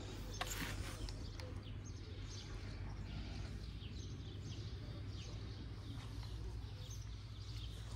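Faint, scattered bird chirps, many short falling notes, over a steady low background hum, with a single click about half a second in.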